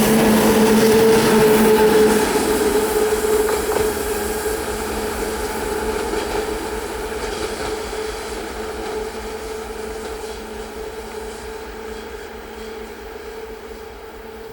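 ТЭП70БС diesel passenger locomotive running light and moving away: its diesel engine gives a steady hum over the rumble of the wheels on the rails, fading gradually as it recedes.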